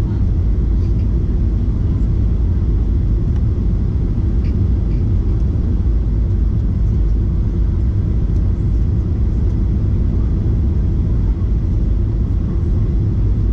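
Steady low rumble of a jet airliner heard from inside the passenger cabin: engine and airflow noise, even throughout.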